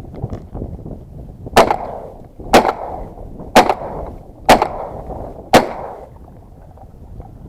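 Five shotgun shots fired in quick succession, about one a second, from a Stoeger 2000 semi-automatic shotgun at ducks, each blast echoing away, over wind noise on the microphone.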